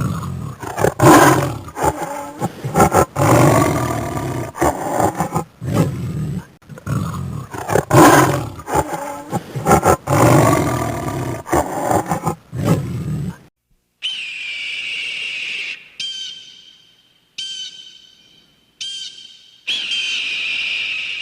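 Animal calls: a run of loud, rough, low calls repeating for about thirteen seconds. Then, after a brief gap, come clear high-pitched calls, one long, several short, then another long one.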